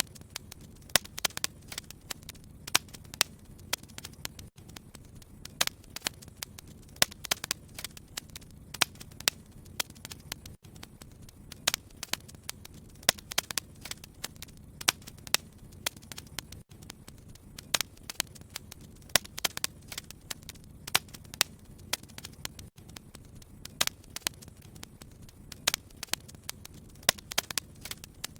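Wood fire in a fireplace crackling: irregular sharp pops and snaps, several a second, over a low steady rumble of the burning.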